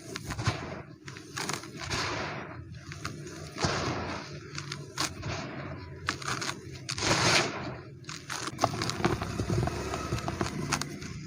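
Dry, dusty cement crumbling and crunching, with irregular sharp crackles and several longer gritty crunches, the loudest a little past halfway.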